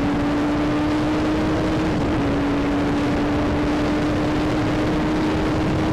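Motorcycle engine running at a steady cruising speed, its note holding nearly level and rising slightly, under a constant rush of wind noise from riding.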